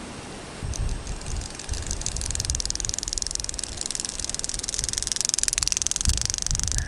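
Dirt bike running with a fast, even rattle, about half a second in, and uneven low rumbles of wind buffeting the camera microphone.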